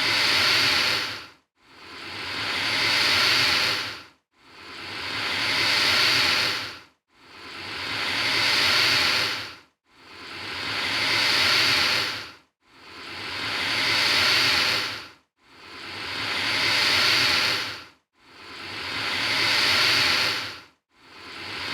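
Alligator hissing: one long breathy hiss after another, about every three seconds, each building up and then dropping away into a short gap, about eight times over.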